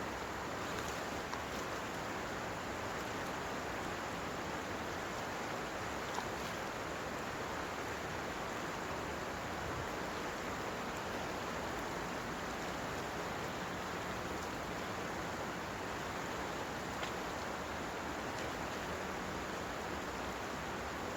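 Steady rushing water, an even hiss that does not change, with a faint tick about six seconds in.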